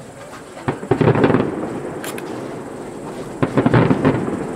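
Aerial fireworks shells bursting in two quick volleys of bangs, one about a second in and another near the end, each trailing off in a rumbling echo.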